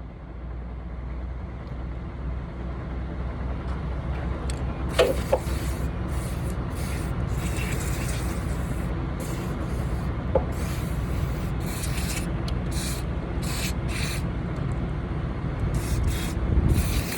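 Aerosol can of WD-40 sprayed in many short hissing bursts onto rusty ratchet load binders, with a couple of metal clicks, over a steady low rumble.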